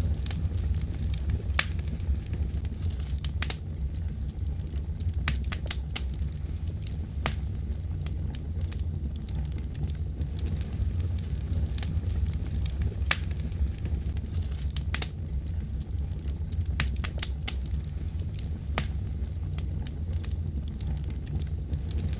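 Wood fire crackling, with irregular sharp pops and snaps over a steady low rumble of the burning.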